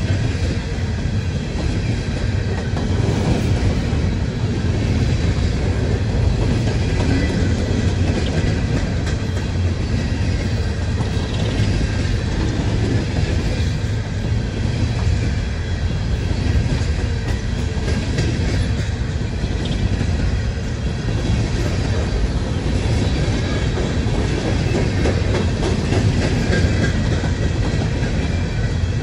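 Empty coal hopper cars of a long freight train rolling past, a steady rumble with the clatter of wheels over rail joints.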